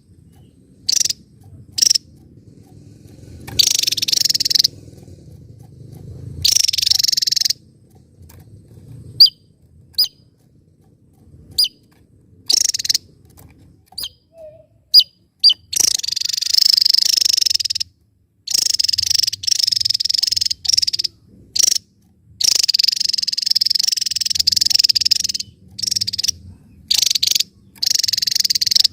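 Javan tesia singing: bursts of high, rapid, shot-like notes, with a few short single chirps in the middle and longer runs of two to three seconds in the second half.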